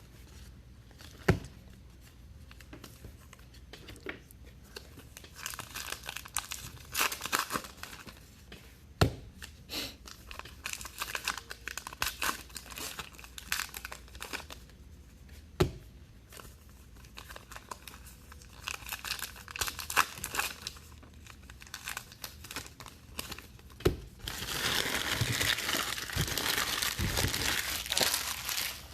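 Foil wrappers of trading-card packs being torn open and crinkled by hand, with scattered sharp clicks and taps. The crinkling gets louder and busier over the last five seconds.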